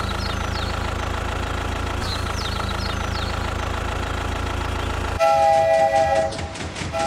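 A steady engine rumble with a few short chirps over it, then about five seconds in a train horn sounds suddenly: a chord of several steady notes, with an even clacking rhythm under it.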